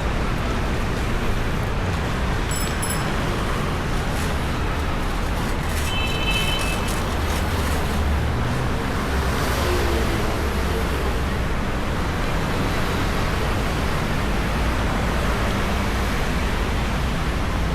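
Steady city street noise: a hum of road traffic with wind rumbling on the microphone. A couple of short high chirps come through a few seconds in.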